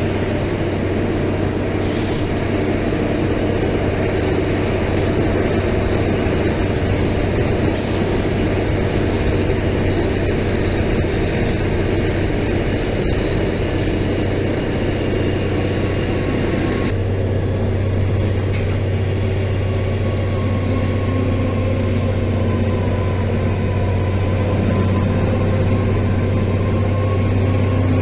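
Heavy engines running steadily with a strong low drone, broken by a few short hisses; the mix of engine tones changes abruptly about two-thirds of the way in.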